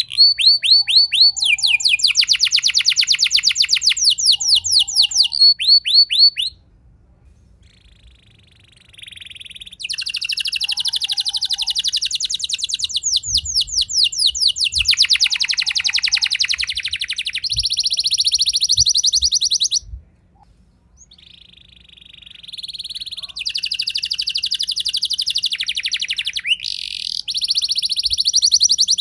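Domestic canary singing a long rolling song: rapid trills of repeated high notes that change speed and pitch from phrase to phrase, broken by two pauses of a few seconds.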